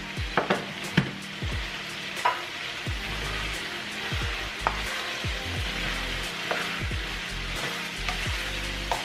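Chicken, carrots and green beans sizzling in a hot nonstick wok while being stirred, with a steady frying hiss and the spatula tapping and scraping the pan every second or so.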